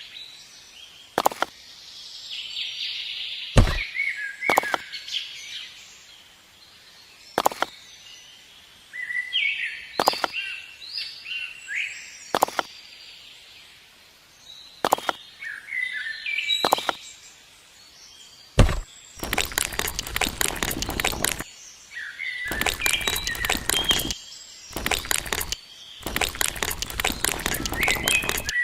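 Birds chirping in short calls, with a sharp knock every few seconds. In the last third, four bursts of rapid clattering, each lasting a second or two.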